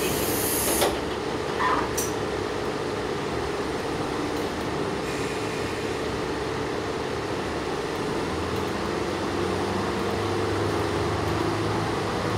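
Steady running noise inside a moving diesel railcar: engine drone and wheels on the rails. A brief hiss sounds in the first second, and a deeper drone comes in about eight seconds in.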